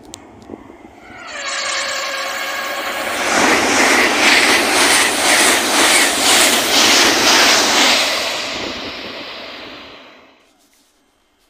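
Express passenger train sounding its horn in one steady blast of about two seconds, then rushing through the station at speed with a regular beat from the wheels. The noise fades away after about eight seconds.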